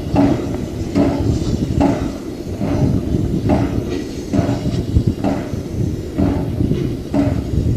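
Steam locomotive chuffing at an even beat, about one exhaust puff every 0.8 seconds, over a steady low rumble.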